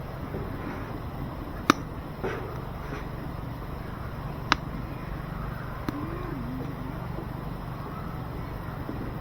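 Firewood burning in a wood stove, giving a few sharp, isolated pops over a steady low rumble.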